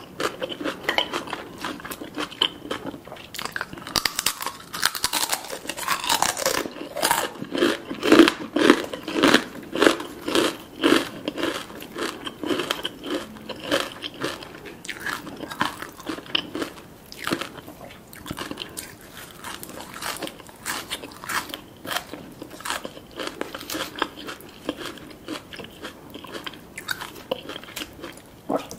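Close-miked chewing and crunching of crisp food, a spicy papaya salad with crispy chicken skin, in a steady run of crisp crunches about two a second, loudest around a quarter of the way in.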